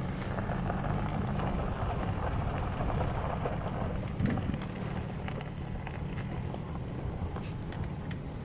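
Wind rumbling on the microphone, with one short knock about four seconds in.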